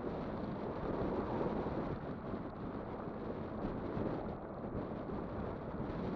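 Steady wind noise buffeting the microphone of a moving e-bike, an even low rushing with no distinct knocks or tones.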